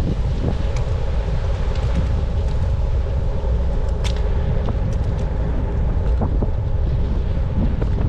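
Steady low rumble of a bicycle rolling along the road, heard through a bike-mounted camera with wind on the microphone, with a few light ticks.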